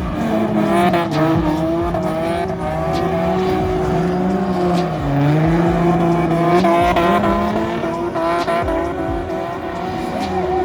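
Drift car engines revving up and falling back again and again as the cars slide, with tire squeal underneath.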